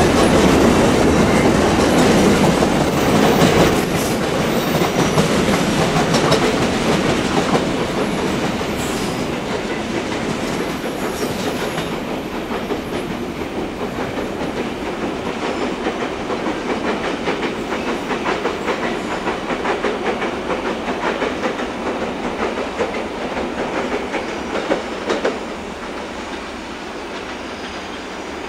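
Empty coal wagons of a long freight train rolling past, their wheels clattering rhythmically over the rail joints. The sound fades gradually as the last wagons move away.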